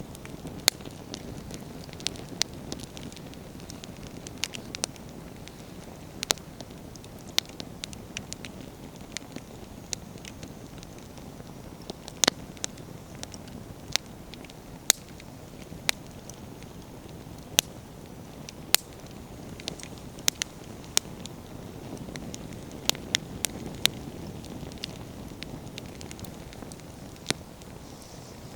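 Wood campfire burning, with a steady low rush of flames and frequent sharp, irregular pops and crackles of the logs bursting.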